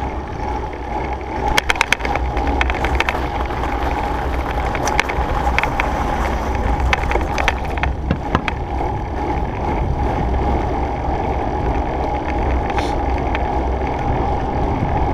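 A Surly Krampus 29+ mountain bike being ridden: steady rolling noise with a faint steady hum. Sharp clicks and rattles come in a cluster about one and a half to two seconds in, and again scattered through the middle.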